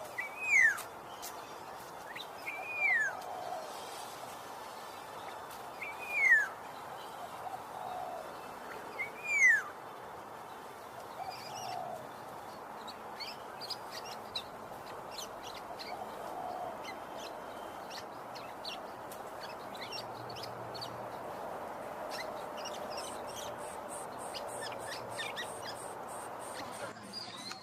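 Bird calls: four loud calls, each sliding downward in pitch, about every three seconds over the first ten seconds, then only faint scattered chirps over a steady outdoor hiss.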